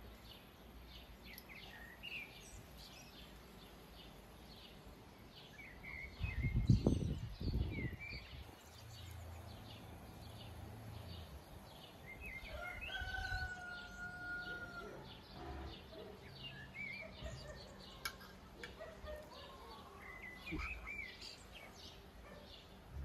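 Songbirds chirping and calling over quiet rural outdoor background noise. A low rumble lasting about two seconds comes about six seconds in.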